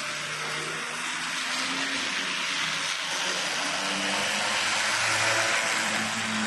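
HO-scale model train running on the layout: a steady motor whir and hiss of wheels on the track, getting a little louder after the middle.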